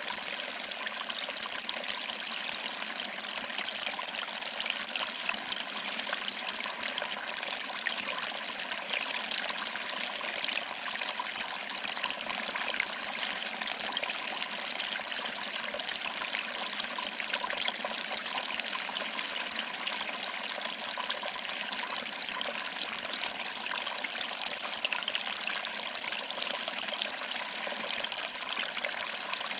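Small waterfall: water trickling over rocks and splashing into a pool below, a steady even rush.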